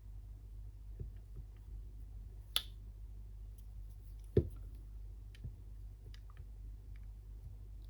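Scattered small clicks and taps from handling small metal parts and tools during a battery-pack repair, the loudest a sharp tap about four and a half seconds in, over a steady low hum.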